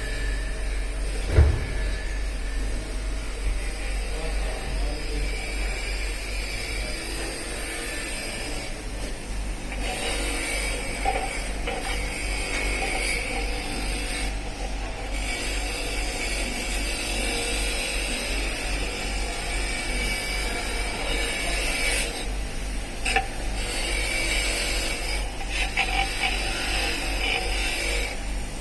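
Hand tools clinking and scraping on engine parts over a steady low hum, with a sharper knock about a second and a half in.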